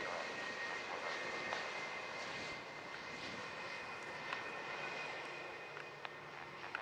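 Jet airliner engines with a steady high whine over a broad rush, slowly fading.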